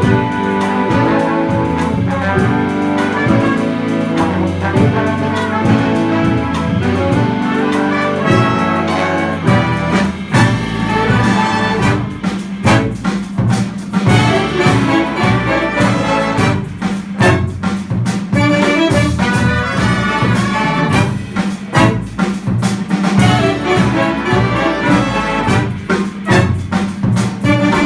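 Jazz band with a brass section of trumpets and trombones playing an instrumental arrangement, over a steady drum beat that comes more to the front about a third of the way in.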